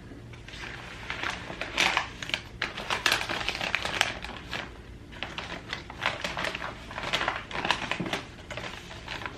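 Shipping packaging being crinkled, rustled and pulled away by hand to unpack a potted plant, an irregular run of crackles and rustles.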